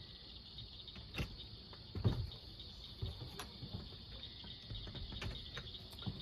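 Night insects chirring in a steady high drone, with a few scattered knocks and thumps, the loudest about two seconds in.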